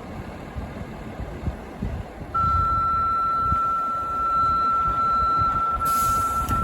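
Fire dispatch radio sending a steady single-pitch paging alert tone that comes on suddenly about two seconds in and holds unbroken, the tone that calls a fire company out. Before it, only a low rumble, with a short hiss near the end.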